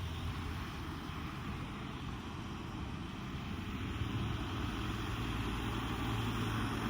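A vehicle's engine running with a steady low hum over continuous motor noise, growing slightly louder over the last few seconds.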